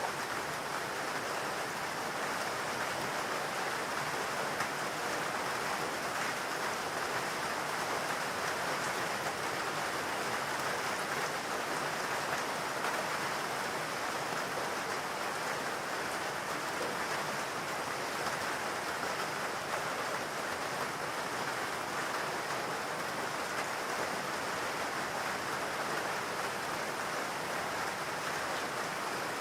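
Steady, even rain falling, a dense hiss with no distinct drops or thunder.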